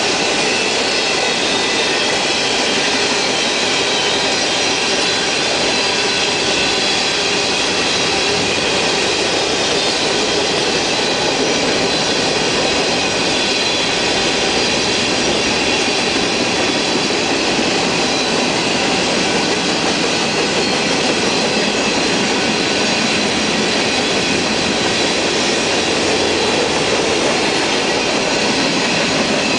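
Freight train's tank cars rolling past close by: steady, loud wheel-on-rail noise of the passing cars, unbroken throughout.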